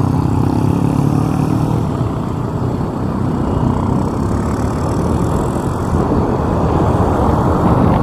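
Motorbike riding along a road: steady engine and road noise.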